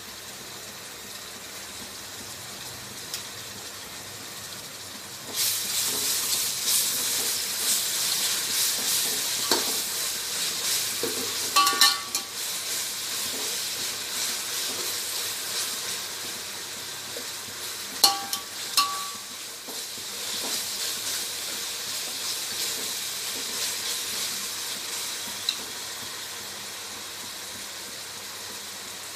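Onions and ginger-garlic paste sizzling in hot oil in a metal pot, stirred with a steel ladle. The sizzle turns suddenly louder about five seconds in and eases off near the end, with the ladle clinking against the pot twice around the middle.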